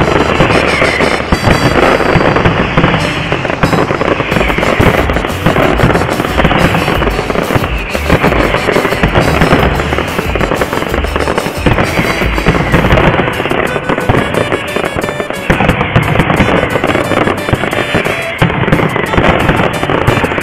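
Aerial fireworks in a dense, continuous barrage: many shell bursts and crackling explosions overlapping without a pause.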